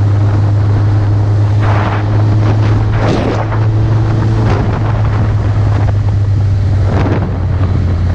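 Suzuki GSX650F motorcycle's inline-four engine running at a steady low hum under heavy wind noise on the microphone, with stronger wind gusts about two, three and seven seconds in.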